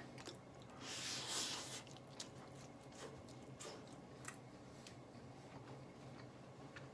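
A person faintly chewing a bite of salted rice ball, with small mouth clicks and a short louder patch of noise about a second in.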